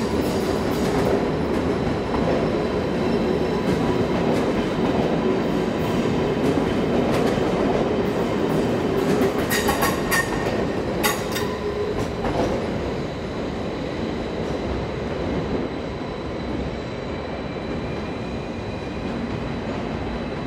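BLS double-deck electric commuter trains rolling slowly over the station pointwork. There is a steady rumble of wheels on rails, with a run of sharp clicks as the wheels cross the points about halfway through, and a faint steady high tone.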